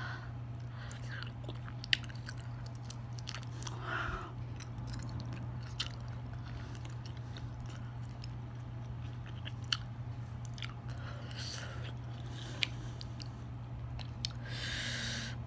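A person chewing chewy rice cakes (tteokbokki) close to the microphone, with soft mouth sounds and a few sharp clicks, over a steady low hum.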